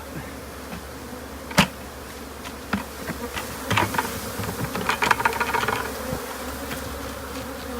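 A swarm of agitated honeybees from a hive being cut out, buzzing steadily. A sharp knock comes about a second and a half in, followed by scattered clicks and knocks, and a dense crackle about five seconds in.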